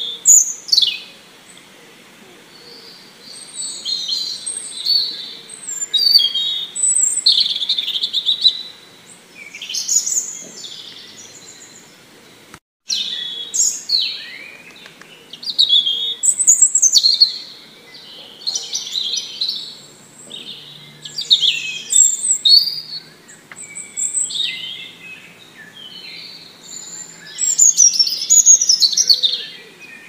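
Small songbirds chirping and singing in short, high phrases every second or two, with short pauses between. All sound cuts out for a moment a little before halfway.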